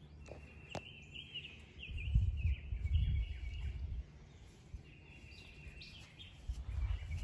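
Wild birds singing in repeated short chirping phrases, with a louder low rumble from about two to four seconds in and again near the end, and a single sharp click just under a second in.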